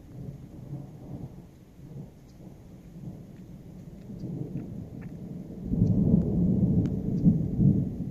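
Rolling thunder rumbling low, building from a soft start to a much louder peal about two-thirds of the way through, with a few faint ticks over it.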